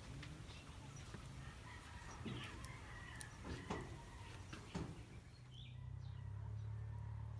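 Chickens clucking faintly, with a few short knocks over a low steady hum.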